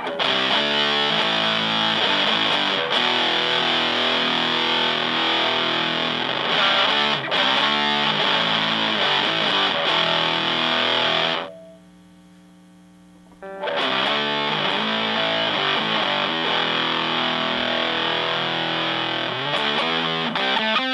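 Fender Stratocaster played through a hand-wired Power-Fuzz silicon fuzz pedal into a Fender Blues Junior amp: heavily fuzzed electric guitar notes and chords. The playing stops for about two seconds a little past the middle, then resumes.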